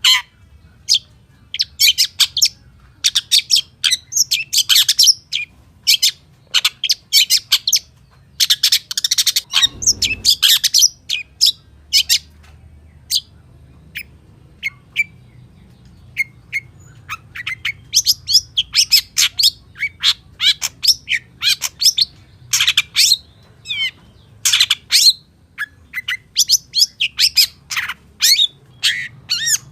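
Long-tailed shrike (pentet/cendet) singing a fast, varied song of short chirps, trills and whistled phrases in quick bursts, the mimicked 'fill-in' notes of a bird in full song.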